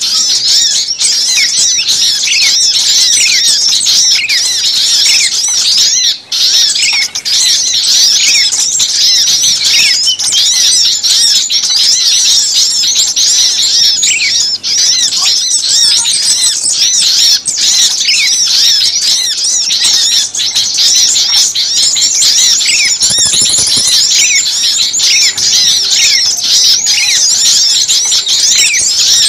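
Many small songbirds chattering and chirping over one another in a dense, agitated chorus, the kind of noisy mixed small-bird recording used as a lure call. Rapid, high, short chirps follow each other without a break.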